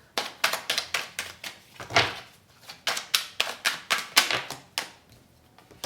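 Tarot cards being shuffled and handled by hand: a run of quick, irregular snaps and slaps of card stock, with a brief pause near the end.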